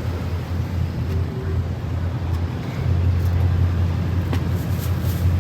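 Muscle car engine running with a steady low rumble, which gets louder about three seconds in.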